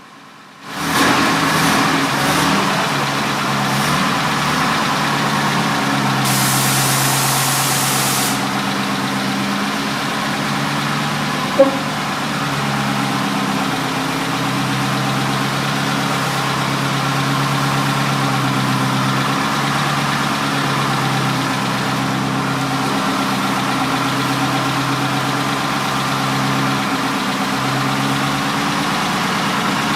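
1938 Packard Super 8's straight-eight engine running steadily at about an idle, coming in suddenly under a second in. A two-second hiss sounds about six seconds in, and there is a single sharp click a little before halfway.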